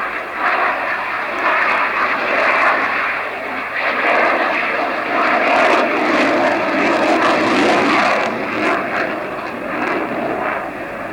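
Jet noise of a Dassault Rafale two-seat fighter in a flying display: a loud, steady rushing sound that swells and eases as the aircraft manoeuvres.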